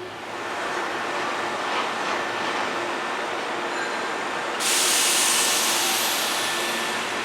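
Hankyu Kyoto Line resistor-controlled electric train running, a steady rumble with a few faint steady tones. About four and a half seconds in, a sudden loud hiss of air noise starts and slowly eases off.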